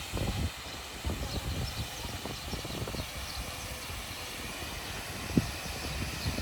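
Rushing water from a garden waterfall, a steady hiss, with irregular low rumbling from wind buffeting the microphone.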